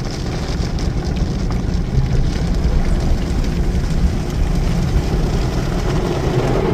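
Automatic tunnel car wash equipment running around the car, heard from inside the cabin: a steady low rumble with spraying hiss, brightest in the first couple of seconds, as the triple foam polish stage goes over the car.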